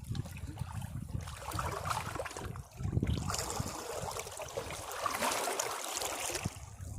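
Sea waves washing against rocks: low rumble, then a surge of rushing, trickling water that swells about three seconds in and ebbs away near the end.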